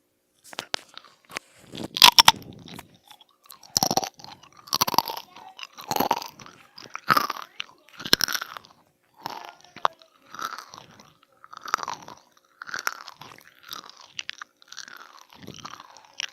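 A person bites into a crunchy food close to the microphone, with one loud crunch about two seconds in. Then they chew it with regular crunching sounds about once a second.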